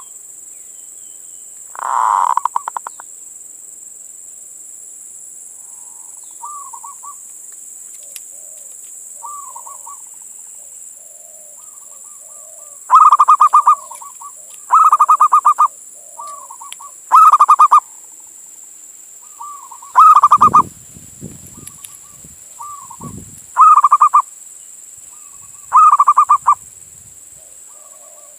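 Male zebra dove (perkutut) cooing its song. The song comes as short, rapid, stuttering phrases, faint at first, then loud and repeated about every two seconds from about halfway through.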